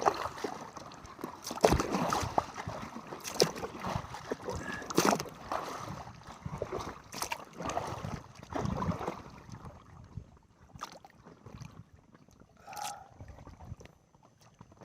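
Kayak paddle strokes splashing and water sloshing against the hull, with occasional sharp knocks. It grows quieter in the last few seconds.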